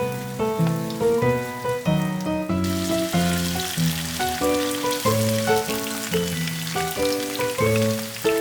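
Background music with a melody of short notes; about two and a half seconds in, food starts sizzling as it fries, and the sizzle continues under the music.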